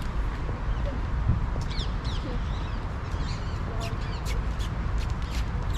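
Ring-necked parakeets giving short, sharp, high screeches, several in quick succession and clustered later on, over a steady low rumble.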